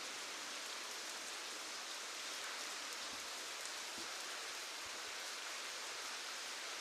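Steady rainfall: an even hiss of rain with a few separate drops ticking on a surface.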